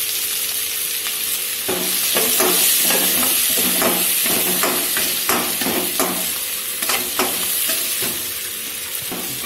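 Shallots and green chillies sizzling in hot oil in a wok, with a metal spatula scraping and stirring them against the pan from about two seconds in until near the end.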